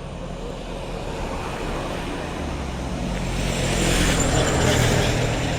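A road vehicle's engine and tyres growing louder as it approaches, loudest about four to five seconds in as it passes close by.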